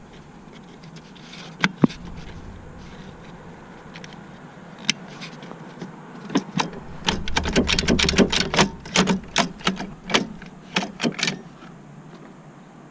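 Sharp clicks and knocks, like tools or metal parts being handled: two close together near two seconds in, one more around five seconds, then a quick irregular run of them from about six to eleven seconds in.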